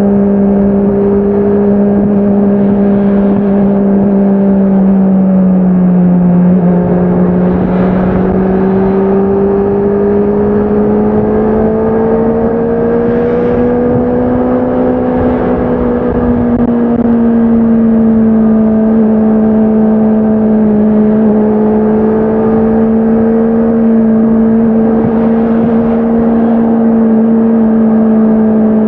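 Honda CBR650R inline-four motorcycle engine and exhaust at steady revs under way. The pitch dips a little about six seconds in, climbs gently until about fifteen seconds in, then eases back slightly and holds steady.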